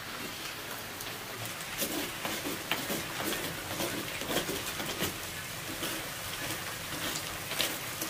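Heavy rain falling steadily, a constant hiss, with scattered sharp crackles and clicks over it.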